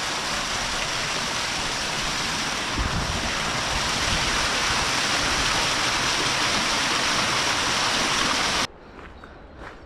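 Steady rush of fast-flowing mountain stream water. It cuts off abruptly near the end, leaving a quiet background with a few faint ticks.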